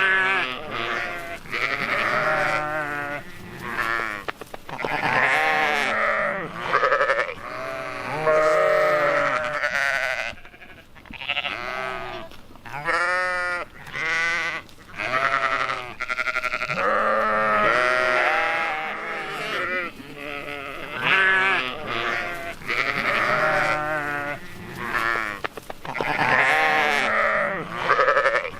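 Flock of Moorschnucken sheep bleating, many wavering calls overlapping one after another, with a short lull about ten seconds in.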